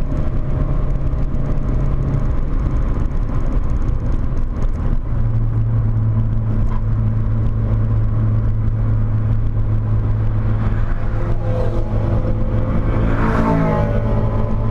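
Volkswagen Corrado 1.8 16V four-cylinder engine pulling at steady revs, heard from inside the car at speed. About two seconds in the engine note drops to a lower pitch, then holds steady.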